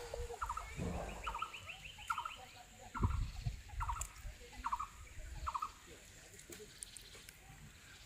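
A bird repeating a short, rattling call about every 0.8 seconds, seven times, then falling silent a little past halfway. A fainter, higher trill rises in pitch about a second in, and there is a low thud about three seconds in.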